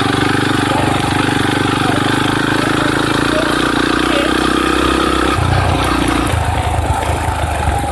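Dirt bike engine running, its note changing about five seconds in.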